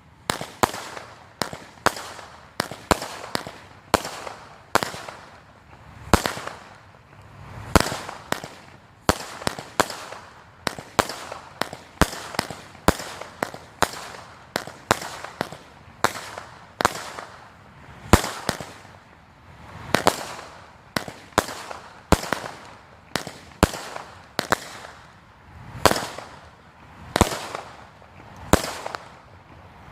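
Phantom Painted Galaxy 200-gram, 25-shot consumer firework cake firing its shots in sequence: a run of sharp reports, a little more than one a second, each followed by a short echoing tail.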